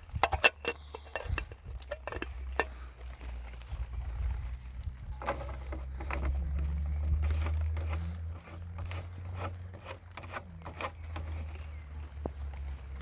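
Scattered light taps and clicks at an irregular pace, thickest in the first second or so, over a steady low rumble.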